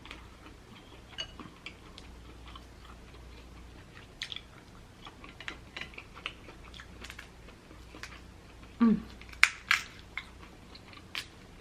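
Close-miked chewing and wet mouth sounds of someone eating crab legs, with scattered soft smacks and clicks throughout. A brief voiced hum comes about nine seconds in, followed by a few louder sharp clicks.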